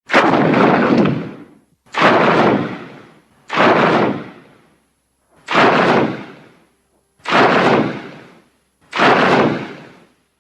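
Six designed kaiju sound effects for the winged-lion monster Griffon: loud blasts that each start suddenly and fade over about a second, one roughly every second and a half.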